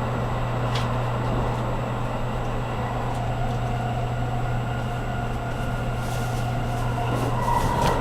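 Inside a running JR Kyushu 783 series electric train: a steady low running hum with wheel and rail noise, a faint whine in the middle, and a few light clicks.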